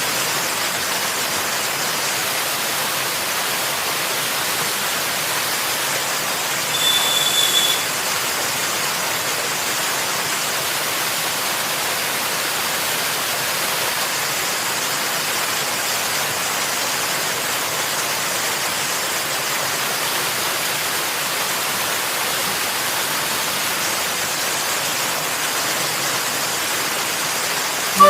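Steady rushing of flowing water, even and unbroken. About seven seconds in comes a brief, louder high-pitched sound lasting about a second.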